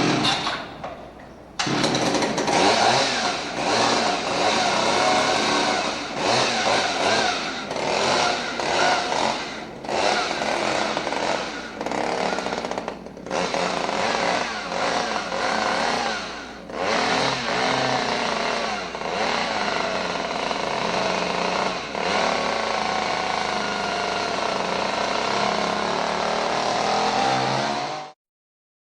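Chainsaw running loudly and being revved, its pitch wavering up and down with several brief dips. It starts a moment in and cuts off suddenly near the end.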